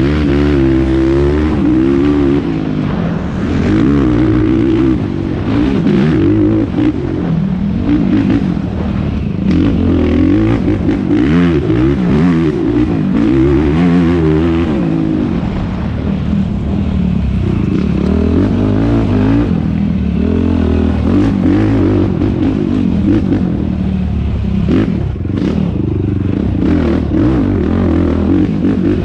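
Yamaha YFZ450R's single-cylinder four-stroke engine revving up and falling back again and again under racing throttle. Short clattering knocks are scattered through it.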